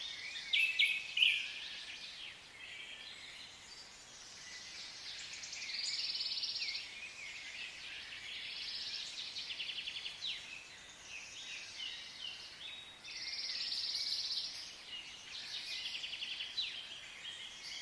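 Many small birds chirping and trilling at once, a dense chatter of overlapping high calls that swells and eases every few seconds.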